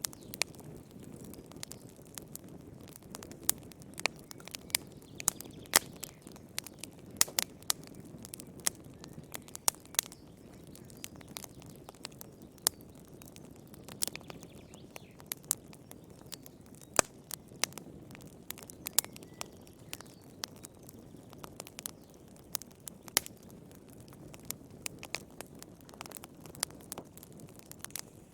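Wood fire crackling in a fireplace: irregular sharp pops and snaps, a few of them much louder, over a soft steady rush of flames.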